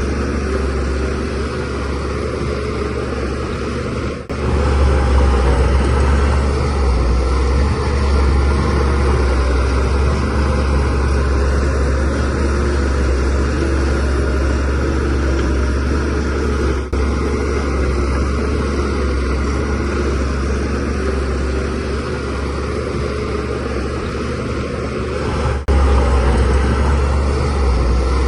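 Bulldozer diesel engine running steadily with a heavy low hum, working a load. The sound drops out briefly three times, about four, seventeen and twenty-six seconds in, and comes back louder after the first and last.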